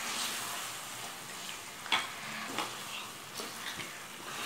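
Country-chicken pieces frying in spiced masala in a pot, a steady sizzle, with a few scrapes and knocks of a stirring spoon against the pot, the sharpest about two seconds in.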